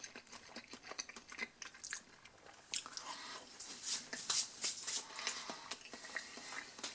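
A person chewing a mouthful of breaded mozzarella stick close to the microphone: irregular short mouth clicks and crunches from the coating, busiest in the middle.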